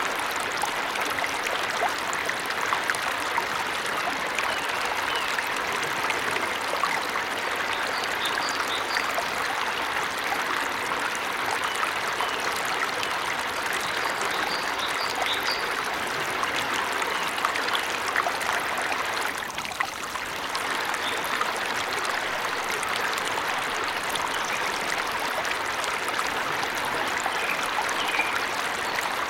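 Steady rush and splash of water falling in a forest stream, with a brief dip about two-thirds of the way through. Faint short bird chirps come through now and then above the water.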